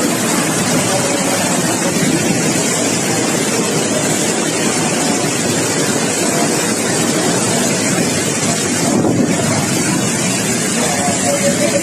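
Typhoon winds blowing hard, a steady, dense rushing noise with wind buffeting the microphone.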